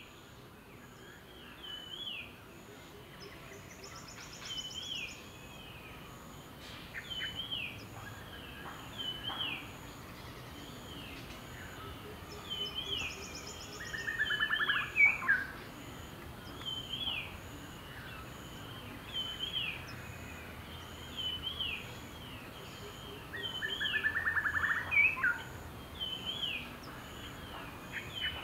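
Forest birds calling: a short hooked chirp repeats about once a second, and a longer rattling call comes twice, about midway and near the end, the loudest sounds heard. Under them runs a faint, evenly pulsing high note, like an insect.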